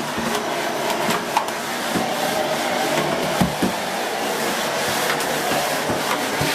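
Miele S6 Cat and Dog cylinder vacuum cleaner with its 2000 W motor running steadily as the floorhead is worked behind a fixture, with a few light knocks.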